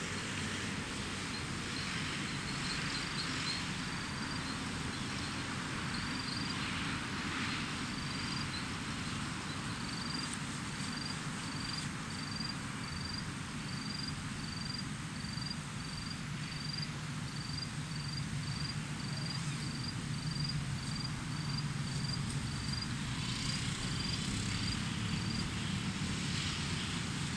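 Steady outdoor ambience of a low, continuous rumble with some wind. Through the middle, a run of short high chirps repeats about twice a second.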